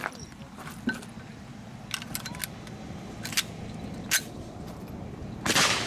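Scattered sharp metallic clicks and clinks of gun handling, with a louder, longer rustling burst near the end.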